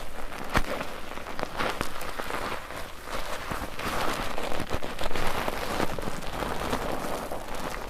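Bar soap being lathered in a mesh foaming net: continuous wet squelching and crackling of foam and bubbles, with scattered sharper pops and clicks.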